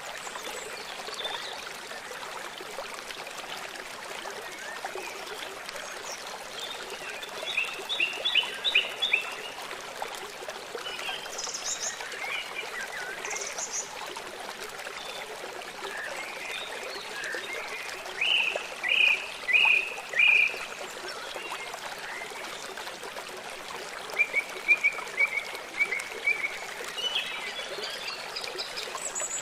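Songbirds chirping in short phrases of quick repeated notes over a steady hiss like running water.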